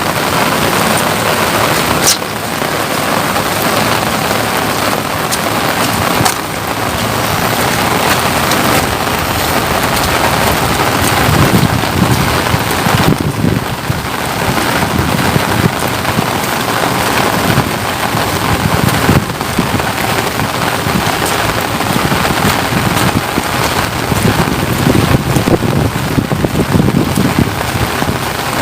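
Steady rain falling close to the microphone, a dense unbroken hiss with uneven patter and a couple of sharp clicks about two and six seconds in.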